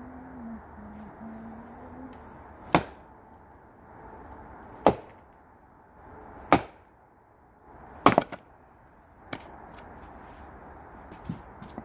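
Axe splitting firewood: four sharp, loud strikes about two seconds apart, the fourth followed at once by a second crack, then a lighter knock and a few soft taps near the end.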